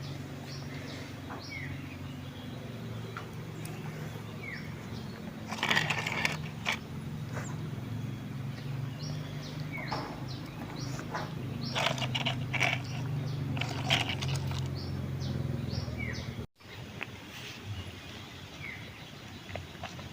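Small birds chirping repeatedly with short high notes, over a low steady hum that cuts off about three-quarters of the way through. A few louder rustling bursts come about six seconds in and again near twelve and fourteen seconds.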